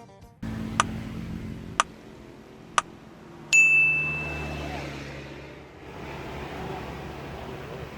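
Three sharp ticks about a second apart, then a loud bright ding that rings and fades over a couple of seconds, like a countdown sound effect, over steady outdoor background noise.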